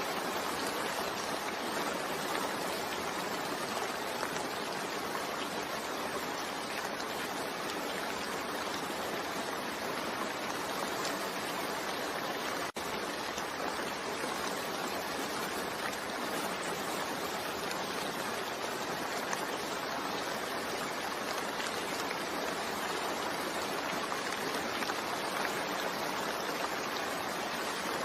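Steady heavy rain falling, an even rushing hiss with no let-up, broken only by a split-second dropout about halfway through.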